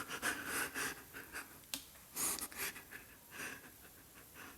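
A person's breathing, with faint scuffs and rustles in between.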